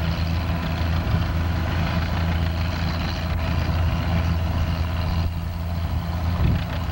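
Antique tractor engine idling steadily, a low even drone.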